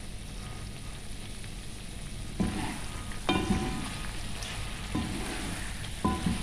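Flour-coated chicken pieces sizzling steadily in hot oil. From about two and a half seconds in, a wooden spatula stirs them, scraping through the pot and knocking against it a few times with short ringing clunks.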